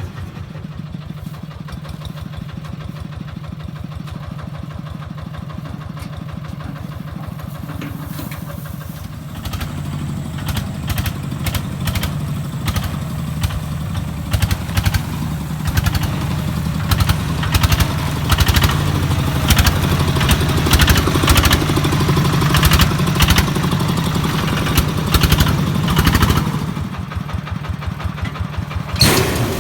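Quick Truck QT-14 carrier's engine running with a fast, even chug. About a third of the way in it gets louder under load, with frequent sharp knocks and clatter. It eases back near the end, where there is one sharp bang.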